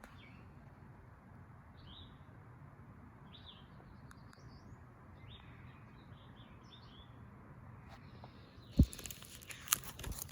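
Faint bird chirps, short and scattered, over a steady low background hum. Near the end comes a sharp knock followed by rustling.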